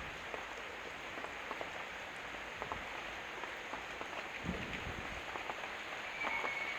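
Steady hiss of heavy rain with scattered small ticks of drops, and a single low knock about four and a half seconds in.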